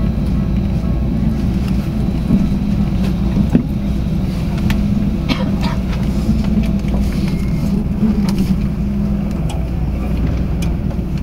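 Tokyu Setagaya Line 300 series light-rail car running along the track, heard from inside the car: a steady low rumble with a continuous hum that fades about nine seconds in, and a few sharp clicks from the wheels and track around the middle.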